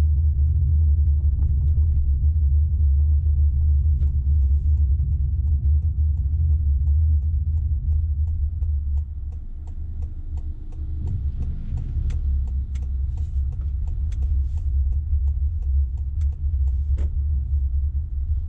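Car cabin road noise: a steady low rumble from the moving car, which drops back about halfway through as the car slows. A run of faint, evenly spaced ticks follows in the second half.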